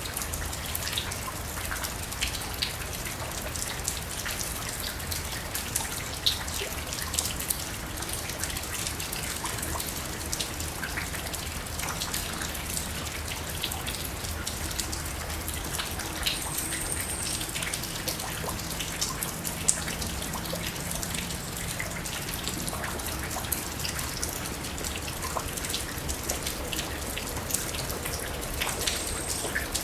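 Steady falling rain, with many close drops landing as scattered sharp ticks over an even hiss.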